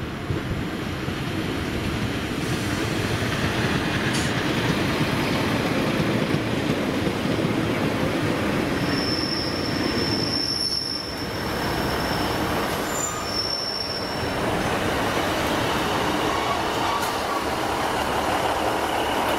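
A train running past on the rails with a continuous wheel-on-track noise, its wheels giving a high-pitched squeal twice, about halfway through and again a few seconds later.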